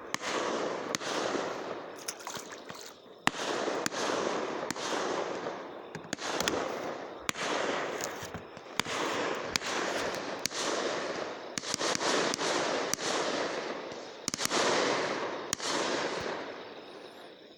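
Fireworks going off in quick succession: sharp bangs about once a second, each trailing off over about a second, dying down near the end.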